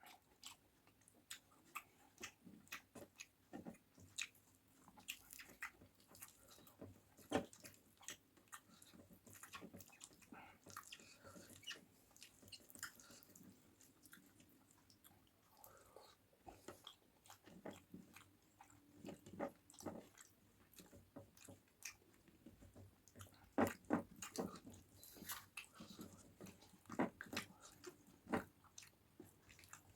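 A person chewing and biting food close to the microphone: irregular wet mouth clicks and smacks throughout, with a louder run of them about three-quarters of the way through.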